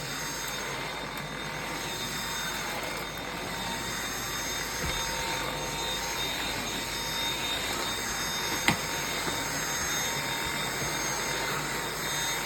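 Dyson V7 cordless stick vacuum running steadily on its minimum power setting, its motor whine and suction even throughout, with one sharp click about two-thirds through.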